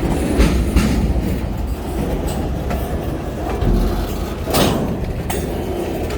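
EMD SD40-2 diesel locomotives rumbling steadily during switching, with a few sharp clanks from the train, the loudest about four and a half seconds in.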